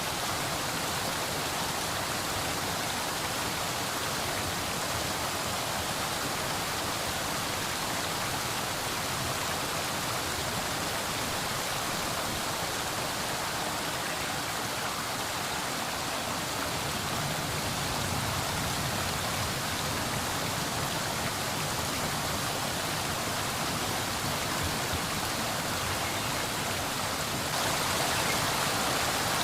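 Steady rushing of water, an even hiss with no distinct drops or splashes, growing a little louder near the end.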